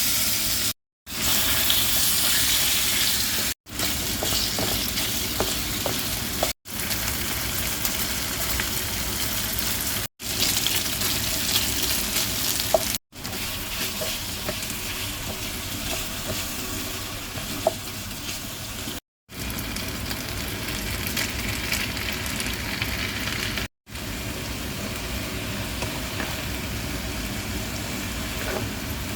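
Food frying in a pan, a steady sizzle with a few faint clicks. The sound cuts out completely for a split second about seven times, at edit cuts.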